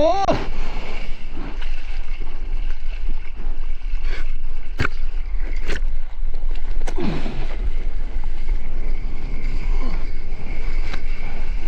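Wind buffeting the microphone over the steady wash of the sea, with a few sharp clicks in the middle.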